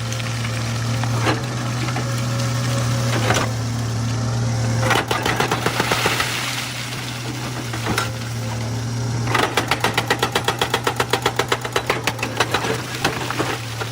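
Excavator's diesel engine running steadily under load, with scattered knocks and clanks of rock and steel. From about nine seconds in there is a fast rhythmic hammering at about eight beats a second for some three seconds.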